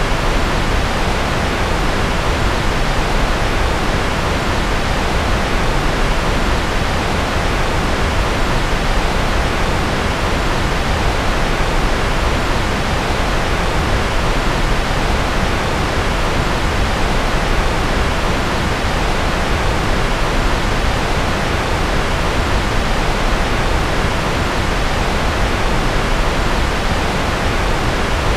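Steady generated noise track sold as white noise: an even, unchanging hiss, fuller in the lows than in the highs.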